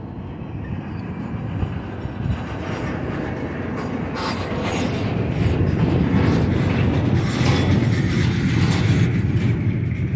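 Intermodal well cars of a freight train rolling past on the rails: a steady rumble of steel wheels, with the cars' metal clanking and rattling. It grows louder about halfway through.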